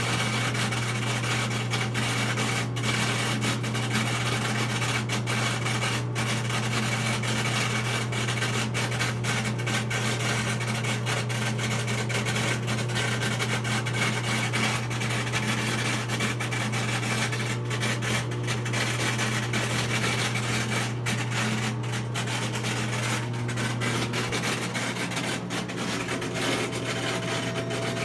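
Whirlpool front-load washing machine running in its spin and drain cycle, making an abnormal continuous rubbing, rasping noise over a steady low hum. Near the end a faint whine starts to rise in pitch.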